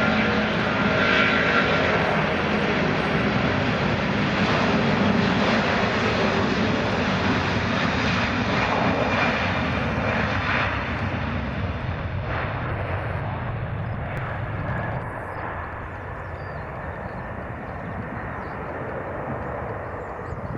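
Boeing 777 jet airliner passing close on its landing approach, its engines loud and noisy with a high whine. The sound eases after about twelve seconds and drops away further near fifteen seconds as the aircraft moves off.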